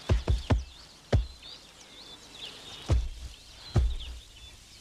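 A secretary bird stamps on a snake with its feet, landing about six heavy thuds: three in quick succession at the start, then single blows spread over the next few seconds. Faint birdsong chirps underneath.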